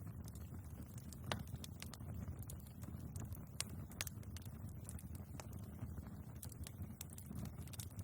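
Wood fire burning in a fireplace: a low steady rumble of flames with many small, sharp crackles and pops from the logs, one louder pop about a second in.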